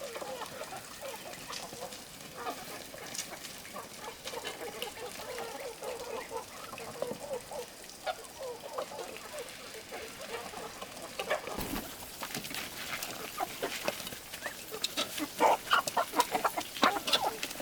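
Chickens clucking, many short calls one after another. Sharp clicks and taps come in over the last few seconds.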